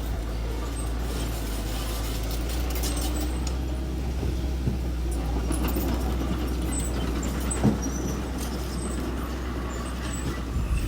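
Diesel engine of heavy earthmoving machinery running steadily, with a single metallic clank about three-quarters of the way through.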